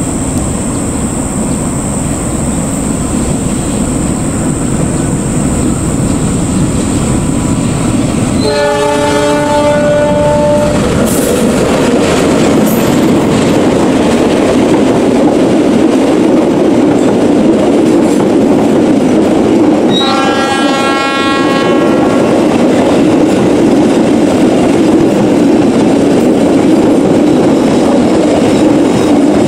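A KAI CC206 diesel-electric locomotive hauling a passenger train approaches and passes close by. Its engine runs and its wheels clack over the rails, growing louder as it nears. Its multi-tone horn sounds twice: a blast of about two seconds around nine seconds in, and a shorter one about twenty seconds in.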